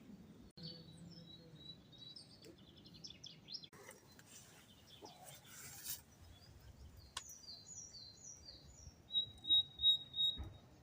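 Small songbirds chirping and singing: short high chirps, then a run of repeated falling notes and a brief trill. There are a few low bumps near the end.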